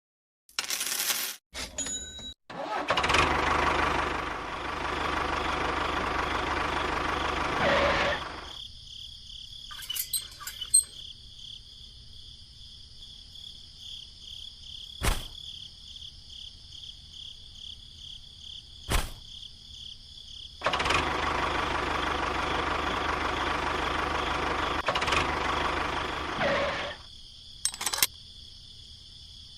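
Small electric motor of a homemade miniature machine running in two steady spells of about five seconds each, with a few sharp clicks between them. Crickets chirp steadily throughout.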